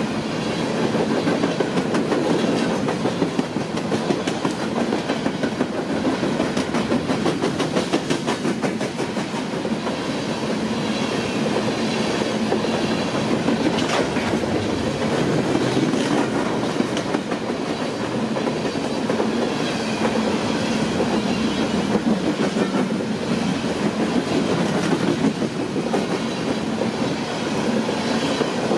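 A train running on the rails: a steady rumble with rapid, repeated wheel clicks over the rail joints.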